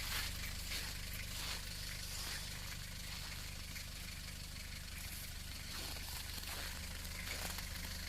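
Nissan Terrano II's 2.7-litre turbodiesel idling steadily just after a cold start at about minus 29 °C, running nice.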